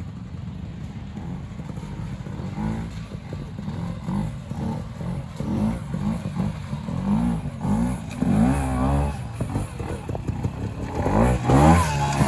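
Trials motorcycle engine running low, then blipped over and over with short rises and falls in revs as it is ridden through a section, growing louder toward the end.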